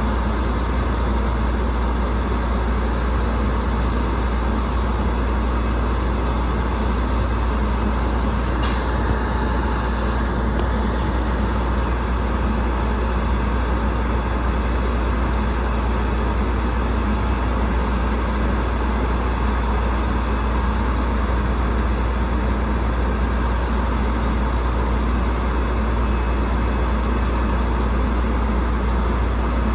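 Rooftop HVAC unit running steadily: a continuous low rumble with rushing air noise. A single sharp click comes about nine seconds in.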